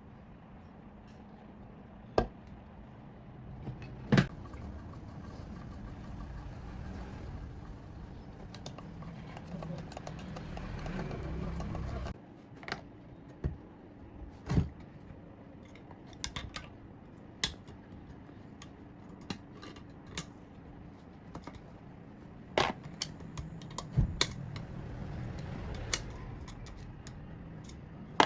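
Irregular sharp clicks and taps of small metal parts and tools being handled, over a low steady hum.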